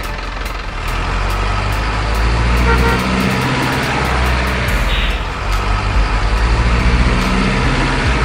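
Diesel truck engine sound for a model cement mixer truck, running steadily and growing louder about a second in and again after five seconds, with a short hiss about five seconds in.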